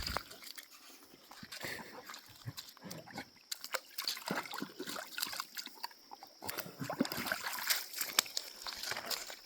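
A wet dog, just out of a swim, moving and breathing close by, with water sloshing and dripping in many short irregular splashes.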